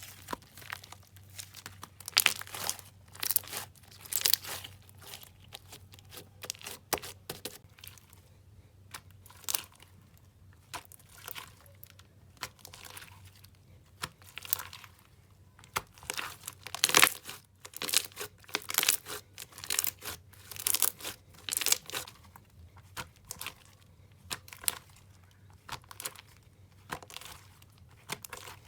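Slime being squeezed, stretched and pressed by hand, giving irregular crackling and popping sounds in quick clusters.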